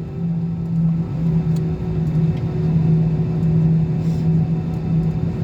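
Airliner engines running with a steady low drone and rumble, holding one pitch without rising or falling.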